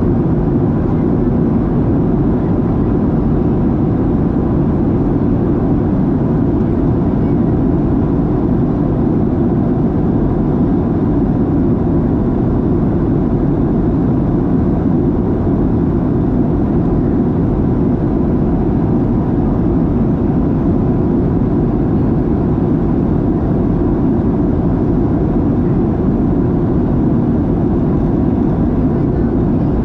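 Steady cabin drone of a Boeing 737-700 in flight: its CFM56-7B turbofan engines and the airflow past the fuselage, with a faint steady tone above the roar.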